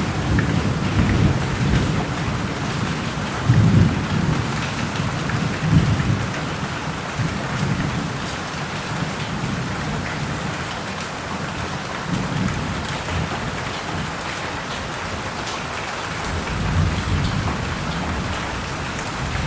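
Thunderstorm: steady heavy rain with thunder rumbling, strongest in the first few seconds and swelling again near the end.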